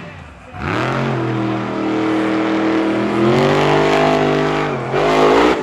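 Monster truck engine revving. It climbs about half a second in and holds high, rises further around three seconds in, drops back, then blips up again near the end.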